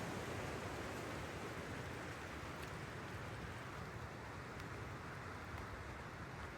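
Steady rushing water noise from rain falling in the forest and a nearby creek, with a few faint drip ticks.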